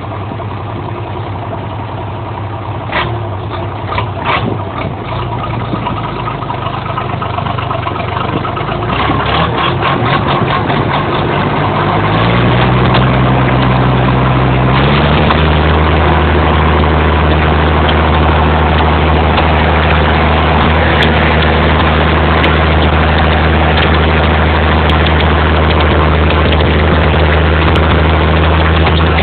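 Exhaust of the '900' vehicle's engine running, with a few sharp clicks early on; its speed steps up about twelve seconds in and again about fifteen seconds in, then holds steady and louder.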